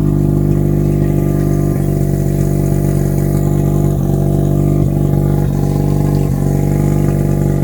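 Non-turbo Mazda RX-7 FC 13B twin-rotor rotary engine idling steadily and loud, running open with the exhaust removed after the pre-silencer. A few faint ticks sound over the idle.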